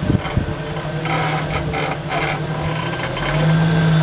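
Jeep Cherokee XJ engine running low and steady while the Jeep crawls over rock, with short creaking and scraping noises in the first half. The engine note gets louder about three seconds in.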